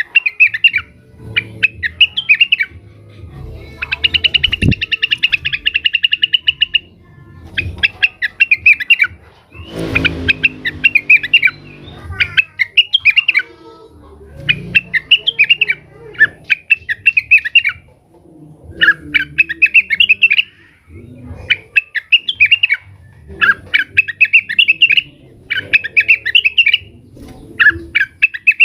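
Cucak wilis (blue-winged leafbird) singing loudly in repeated phrases of quick chattering notes with short pauses between. About four seconds in comes a longer buzzy trill, and about ten seconds in a harsher noisy call. The bird is worked up, calling again and again at a rival.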